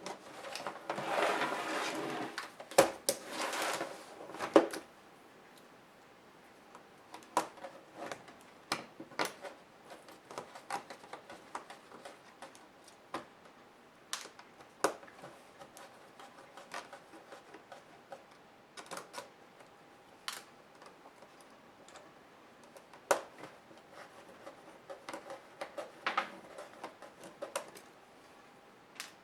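Parts of a laptop being handled and pried apart by hand: scattered clicks and taps of small plastic and metal pieces, with two longer scraping sounds in the first few seconds.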